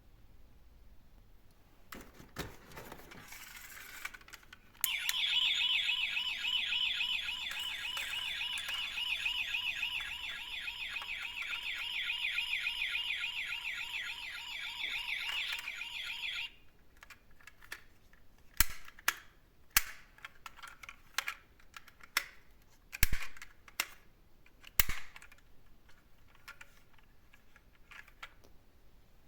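A toy garbage truck's electronic sound gimmick: a fast-warbling, alarm-like electronic tone from a small speaker that plays for about eleven seconds and cuts off suddenly. Scattered sharp plastic clicks and knocks come before and after it.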